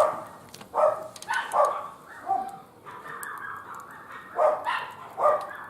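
A dog barking repeatedly in short barks.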